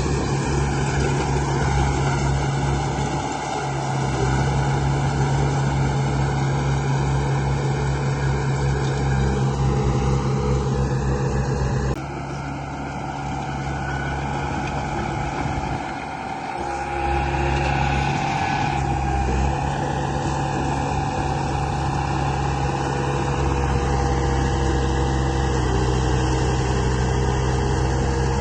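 Construction-machine engine running steadily with a low chugging rhythm. The sound changes abruptly about twelve seconds in and again around sixteen seconds, as at cuts between clips.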